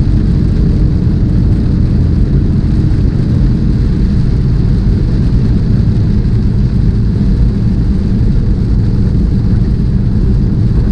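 Steady low drone of a semi truck's diesel engine and road noise inside the tractor-trailer's cab while driving.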